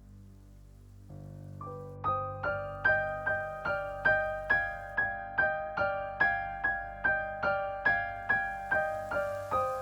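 Background music: a piano playing a steady run of repeated struck notes, about two or three a second, entering about a second in over a soft low drone and growing louder.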